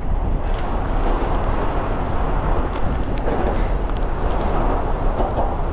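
Mini bike running, heard as a steady loud rushing noise from a helmet-mounted camera, with a few faint clicks.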